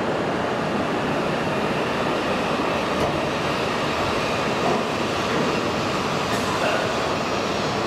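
An E6 series Komachi Shinkansen train pulling slowly away along the platform just after uncoupling from an E5 Hayabusa, heard as a steady, even running noise.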